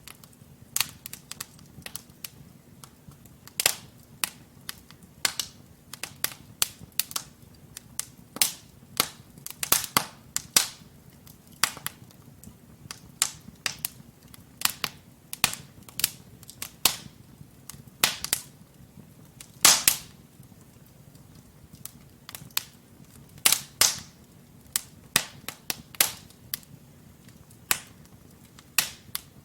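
Wood fire in a fireplace crackling, with burning logs giving frequent irregular sharp pops and snaps over a faint low rumble of the flames; the loudest pop comes about two-thirds of the way through.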